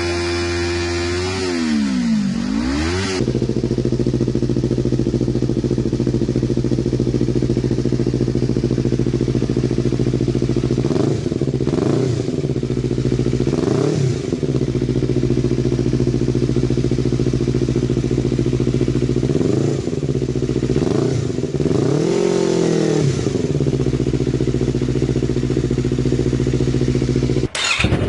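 Yamaha MT-25's parallel-twin engine running through an aftermarket racing exhaust: it settles back to idle in the first few seconds, then idles steadily with several short throttle blips, two pairs in the middle and a longer one a little later. There is a sudden break near the end.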